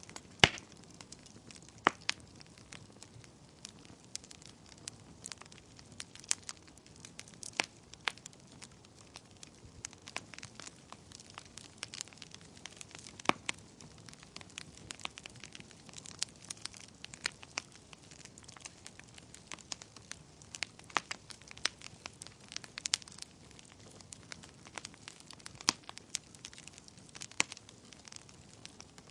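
Wood fire burning in a fireplace: a soft hiss of flames with irregular crackles and sharp pops, the loudest pop about half a second in.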